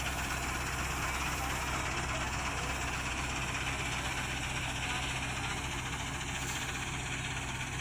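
Old combine harvester's diesel engine running steadily: a constant low drone under an even wash of mechanical noise.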